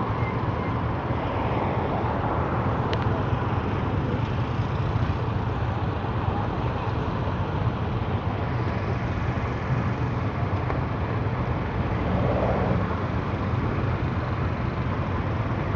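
Steady engine and road noise of a vehicle being driven, with a constant rush of noise from strong storm wind.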